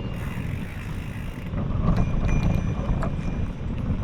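Wind buffeting the microphone on a moving bicycle, a steady low rumble that grows louder about a second and a half in, with a few light clicks and rattles.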